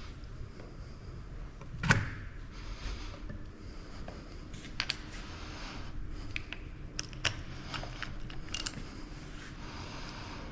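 Spanner and hand tools clinking and tapping on the steel fittings of a hydraulic cylinder as its holding valve is loosened. There is a sharper metallic knock about two seconds in, then several lighter clinks.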